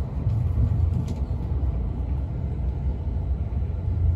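Passenger train running, heard from inside the carriage: a steady low rumble from the wheels and track, with a faint click about a second in.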